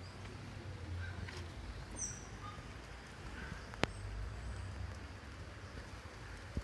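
Outdoor walking ambience: a steady low rumble with a few short, high bird chirps about two seconds in and a single sharp click near the middle.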